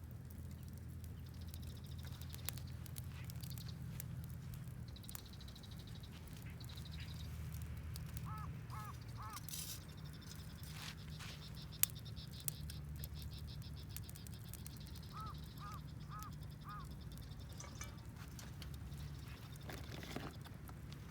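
Wood fire crackling with scattered sharp snaps over a steady low rumble. Birds call in the background: two runs of three or four short calls, about a third of the way in and again past the middle, and a high rattling trill that comes and goes.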